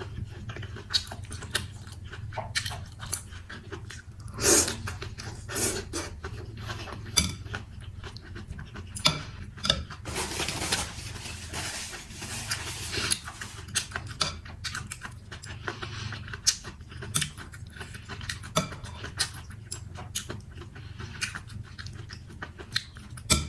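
Close-miked eating of mì Quảng with chicken: chewing and slurping, with many short clicks of utensils against the bowl and a longer run of noisy slurping about ten seconds in.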